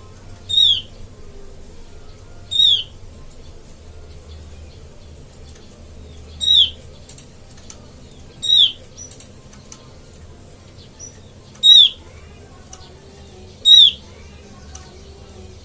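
Opior (a white-eye) lure call: a short, sharp, high note falling in pitch, repeated seven times, mostly in pairs about two seconds apart.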